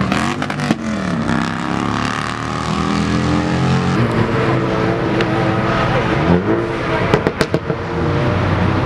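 Loud car engine revving, its pitch rising and falling, with a quick run of sharp pops about seven seconds in.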